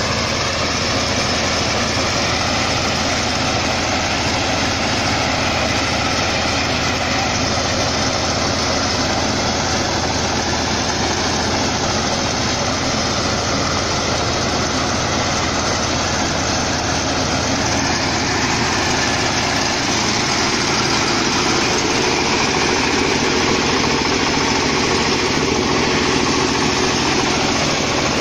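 Mini combine harvester running, a loud, steady mechanical drone that holds at one speed throughout.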